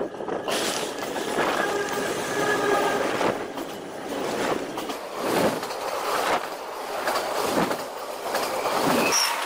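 Freight train passing within about a foot: a loud, steady rush of double-stacked container cars running over the rails, with a whining tone for a couple of seconds near the start.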